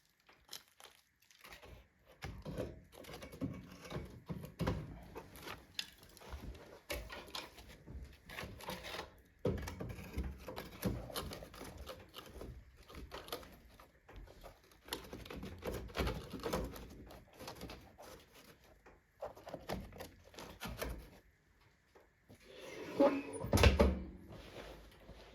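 Wood fire in a stove crackling and popping irregularly as a fungus-rotted log burns on hot embers, with a louder knock near the end.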